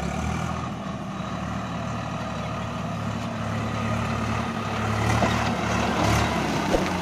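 Heavy diesel engine running steadily under load, growing louder about five seconds in, with a brief knock near the end.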